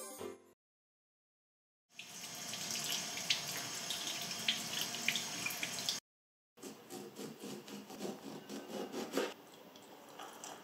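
Water running from a kitchen tap for about four seconds. Then a knife cutting a lime on a wooden cutting board in a run of short crisp strokes, followed by quieter sounds of a lime half being pressed on a small plastic hand juicer.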